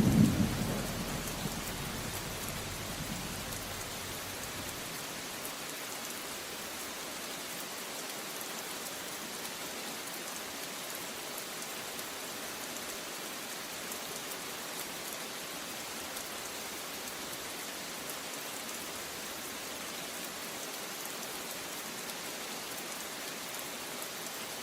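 Steady heavy rain falling, with the tail of a low thunder rumble dying away in the first few seconds.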